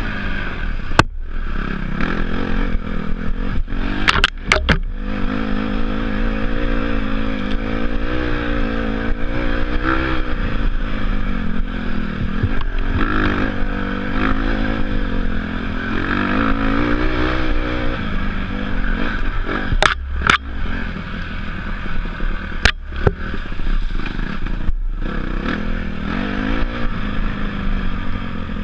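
Off-road motorcycle engine running under a riding load, its pitch rising and falling again and again as the throttle is worked. A few sharp knocks and clatters break through, several close together about four seconds in and again around twenty seconds.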